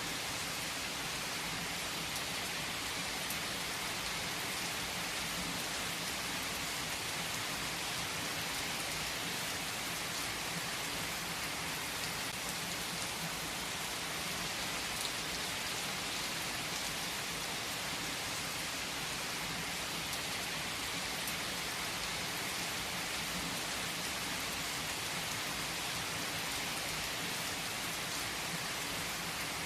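Steady rainfall, a dense, even patter of drops with a constant hiss and no break or change in intensity.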